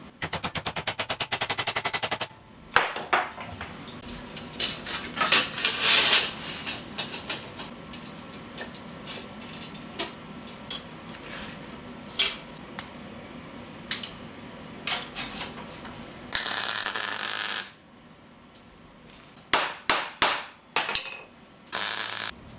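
Metalwork noises: a rapid mechanical rattle of about fifteen strikes a second for two seconds, then irregular sharp hammer knocks on steel, with a hiss of about a second near the three-quarter mark and a brief one near the end.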